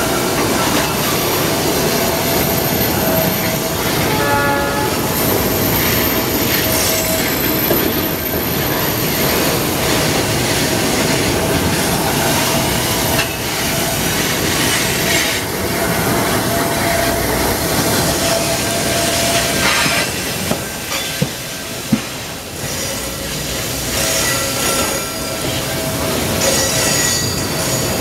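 Freight train tank cars rolling past close by: a steady rumble of steel wheels on rail with a persistent high wheel squeal as the cars take the curve. A few sharp knocks about three-quarters of the way through.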